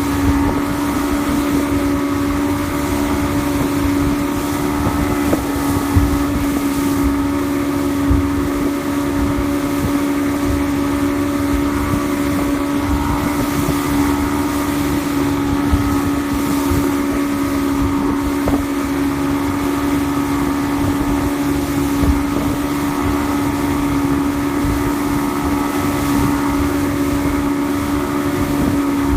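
2007 Evinrude 115 hp E-TEC two-stroke outboard running at a steady speed, with a constant hum and rumble, and wind buffeting the microphone.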